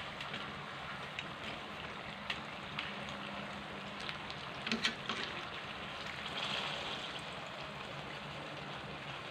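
Turon (banana-and-mango spring rolls) deep-frying in hot oil in a metal wok, a steady sizzle and crackle. The rolls are golden brown. A few sharp clicks stand out, the loudest two close together about five seconds in.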